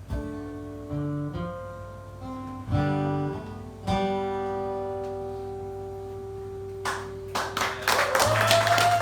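Acoustic guitar picking a few closing notes, then a final chord left ringing and fading. About seven seconds in, the audience starts clapping, with cheering near the end.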